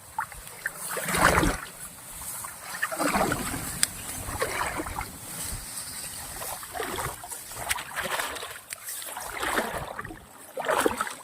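Splashing and sloshing of someone wading through shallow floodwater, in uneven surges every second or two.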